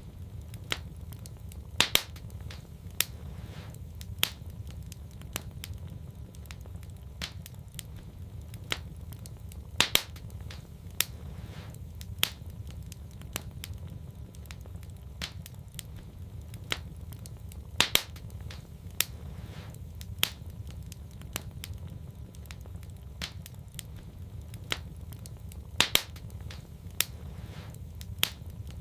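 Fire in a fireplace crackling, with frequent sharp pops over a steady low rumble. The loudest pops come about every eight seconds.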